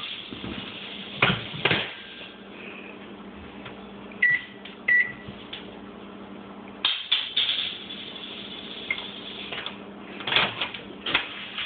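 Microwave oven being shut and run: two knocks, then a steady hum, with two short high beeps a few seconds in and a few more knocks later on.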